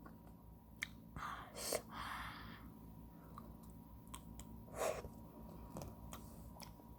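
Quiet eating sounds of ice cream: soft mouth and lip noises and scattered light clicks, with a couple of short breathy bursts.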